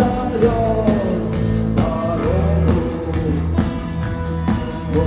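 A rock band playing live, with bass and drums under a gliding melodic line.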